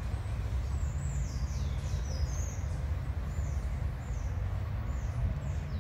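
Birds chirping in the trees: many short, high calls that drop in pitch, over a steady low rumble.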